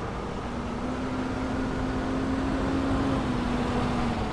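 A fire engine's engine running as it rolls past over a low traffic rumble. Its steady engine note comes in about half a second in, rises slightly, then eases off and drops away just before the end.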